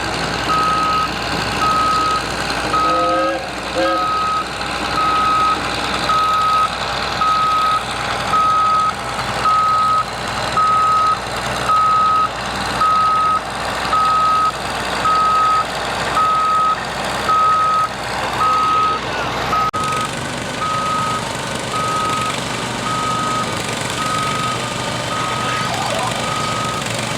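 Vehicle reversing alarm beeping steadily, about once a second, over the sound of a running engine.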